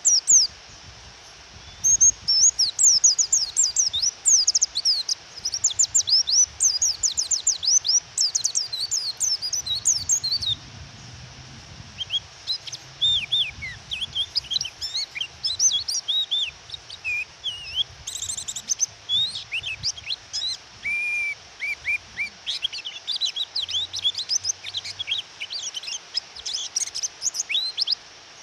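White-eye (pleci) singing: rapid high twittering chirps in a dense run for about eight seconds, then, after a short break, more varied chirps and short whistles, over a steady hiss of rain.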